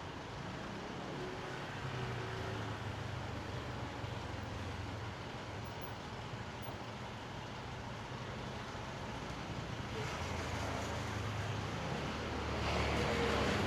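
Motor traffic passing: a steady low engine hum over a haze of road noise, with a vehicle passing loudest near the end.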